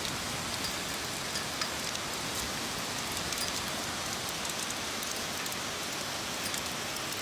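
Heavy rain falling steadily: a dense, even hiss with many small sharp ticks of drops striking surfaces.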